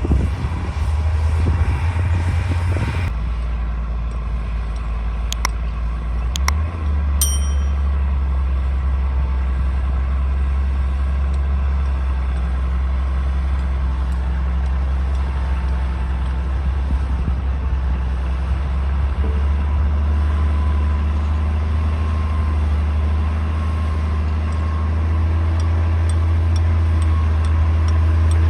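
D60 bulldozer's diesel engine running steadily with a low drone, its note shifting about three seconds in. A few sharp clicks and one brief high squeak come at about five to seven seconds.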